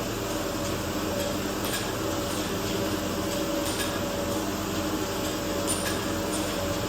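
Twist-type ampoule and vial washing machine running: a steady mechanical hum with light clinks of glass about every two seconds.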